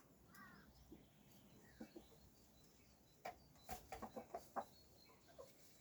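Chicken clucking faintly: a short soft call near the start, then a quick run of short clucks about three seconds in.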